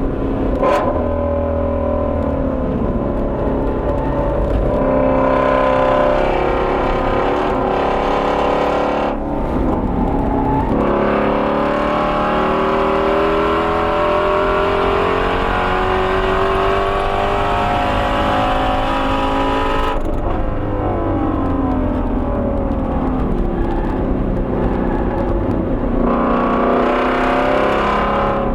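Shelby GT350R's flat-plane-crank 5.2-litre V8 driven hard on track, its pitch climbing and falling as it accelerates through the gears. The engine note drops off abruptly about nine seconds in and again around twenty seconds in, then pulls up again near the end.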